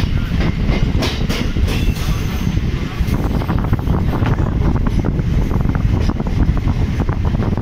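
Chennai MRTS electric suburban train running, heard from an open doorway: a steady, loud rumble and rattle of the coaches' wheels on the rails, with a few sharp clicks from the wheels about a second in.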